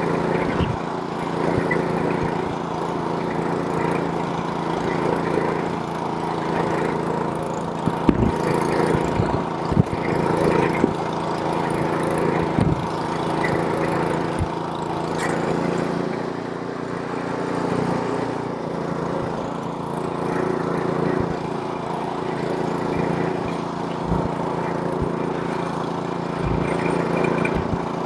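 Snowblower's small gas engine running steadily, with a few brief knocks about eight to thirteen seconds in. The engine note shifts slightly about sixteen seconds in.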